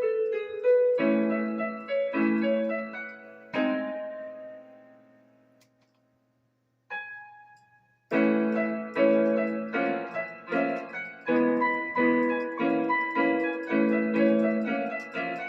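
Keyboard music played as struck, piano-like chords that ring and decay. Around the middle the chords die away to silence, a single short note sounds, and then repeated chords come back in a steady rhythm.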